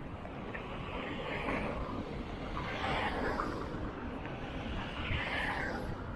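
Street traffic noise: steady road rumble with two vehicles swelling past, about three and five seconds in.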